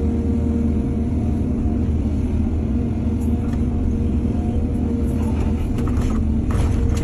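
Heavy diesel engine of an excavator running steadily at a constant speed, with a few short noises over it near the end.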